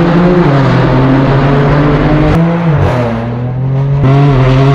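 Straight-piped BMW M4 F82's twin-turbo straight-six running loud under load through an AWE track exhaust, its note dropping in pitch about halfway through and again at the end, with one sharp crack just before the first drop.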